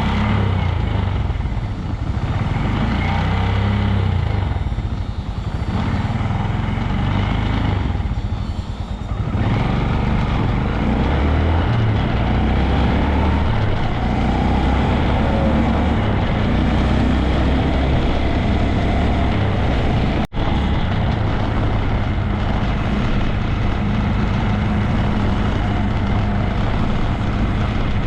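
Honda Grom 125's single-cylinder four-stroke engine running under way, with wind rush on the microphone. The engine note eases off briefly twice in the first ten seconds. The sound cuts out for a moment about twenty seconds in.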